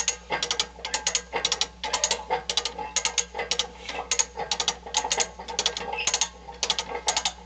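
Come-along hand winch being ratcheted, its pawl clicking in rapid runs with the strokes of the handle as it pulls the chain tight under load.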